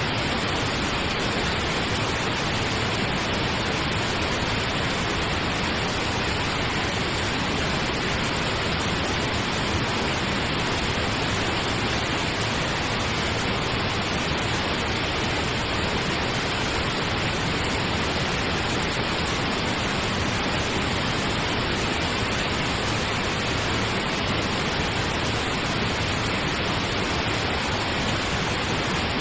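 Steady pink noise: an even, unchanging hiss with no rhythm or breaks.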